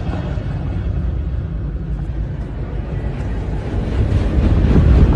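Train approaching with a steady low rumble that swells louder about four seconds in.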